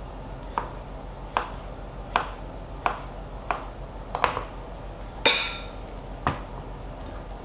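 Knife chopping beetroot on a cutting board: about eight separate strokes, roughly one every 0.7 seconds. A louder ringing clink comes a little after five seconds in.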